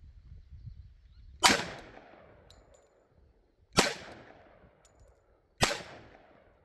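Three handgun shots about two seconds apart, each sharp crack followed by a fading echo.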